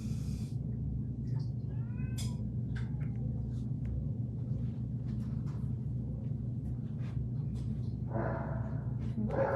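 A domestic cat meowing briefly, one short call about two seconds in, over a steady low hum, with scattered small clicks and a rustling noise near the end.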